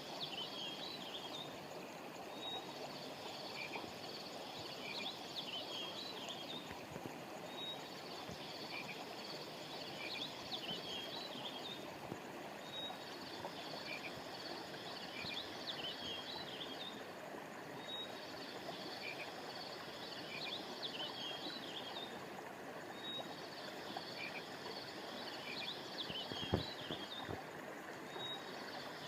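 River or stream water flowing steadily, under a layer of high chirping and buzzing from frogs and insects that repeats in the same pattern about every five seconds. A single soft low thump near the end.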